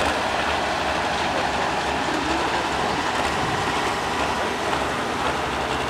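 Ford hot-stock pulling tractor's engine running loud and steady.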